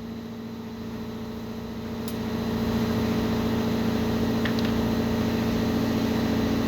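Air compressor kicking on abruptly and running steadily, a motor hum with hiss that builds over the first couple of seconds and then holds level, powering compressed air for blowing clean a hydraulic filter screen.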